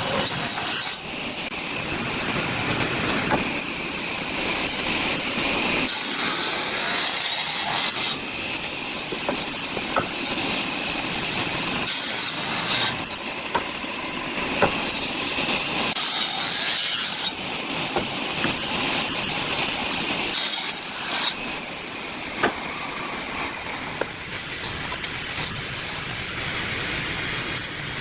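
A power tool working hardwood: a steady running noise with a constant whine, louder hissing stretches every few seconds as it bites into the wood, and scattered sharp clicks.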